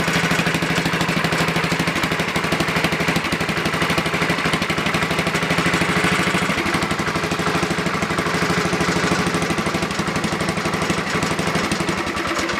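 Small garden tractor engine running steadily with a rapid, even pulse, cold-started and then dying or shut off at the very end. The owner says it doesn't like to idle at all.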